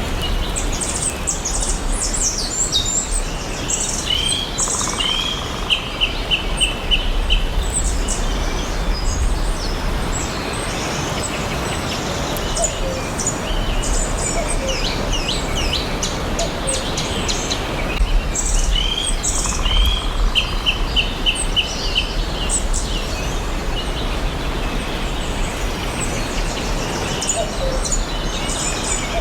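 Several forest songbirds chirping and singing over a steady background hiss and low rumble. A quick trill of repeated notes comes twice, about fifteen seconds apart, with the calls around it recurring as well.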